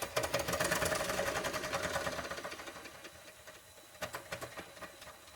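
Doll 360 model steam engine plant giving a sudden burst of rapid, even clattering beats that starts abruptly, holds for about two seconds and then dies away, with a few louder ticks about four seconds in. The boiler pressure is running high because the burner flame is set too high.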